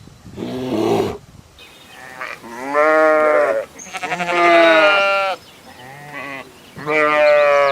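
Bleating livestock: four long, wavering bleats, the last cut off at the end.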